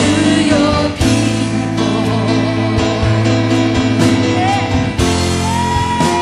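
Worship band music with guitar, voices singing long held notes between the sung lines.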